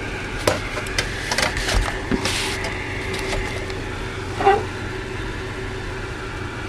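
Steady low background hum with scattered light clicks and a brief rustle in the first few seconds, and one short pitched sound about four and a half seconds in.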